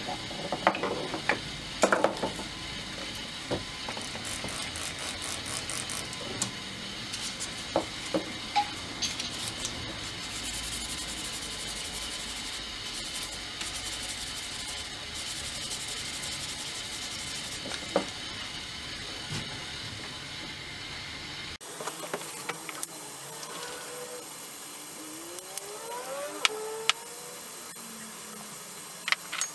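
Steel chisel tops being rubbed and scraped by hand with 1000-grit sandpaper, with scattered sharp clicks and knocks as the chisels are handled. About two-thirds through, the sound changes abruptly to a quieter rubbing with faint squeaks.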